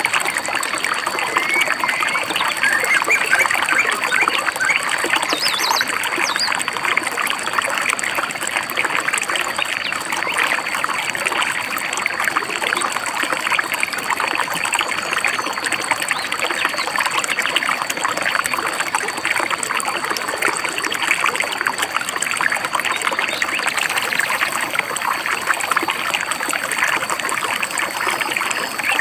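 Babbling stream, water trickling and splashing steadily over rocks. A few short bird chirps sound in the first several seconds, and a steady high thin tone runs underneath.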